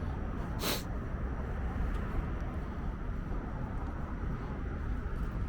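Steady low rumble of street traffic and streetcars, with one brief hiss about a second in.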